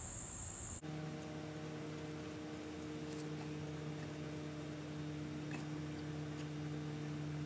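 A high, steady insect trill cuts off abruptly under a second in. It is replaced by a steady low hum with a few faint ticks.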